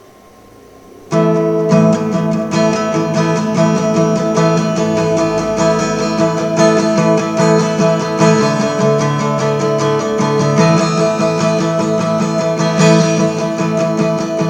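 Guitar-led music: a faint fading note, then about a second in loud strummed guitar chords come in and ring on steadily.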